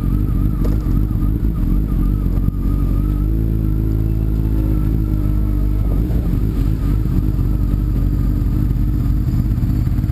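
Sport bike engine running steadily, with a brief shift in pitch in the middle.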